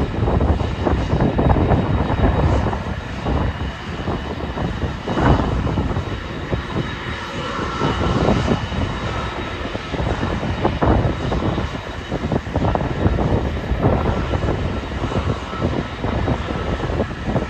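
Jet airliner's turbofan engines running with a steady high whine, under heavy wind buffeting on the microphone.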